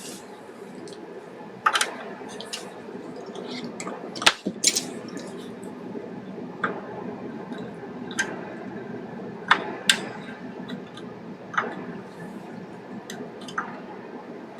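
Irregular sharp clicks and light taps, a dozen or so, the loudest about four seconds in, over a steady low hum.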